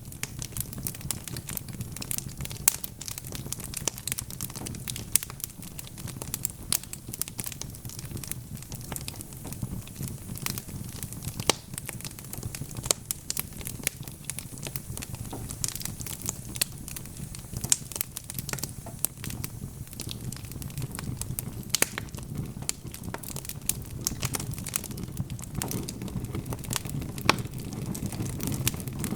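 Wood fire crackling steadily, with frequent sharp pops and snaps of varying loudness over a low, steady rumble of burning.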